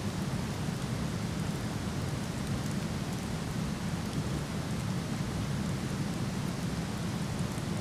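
Steady roar of a waterfall, strongest in the low range, with faint scattered crackles of a wood campfire.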